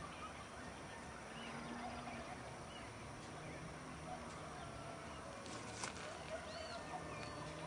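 Faint open-air ambience: steady background hiss with scattered short bird chirps, and one light click a little after halfway.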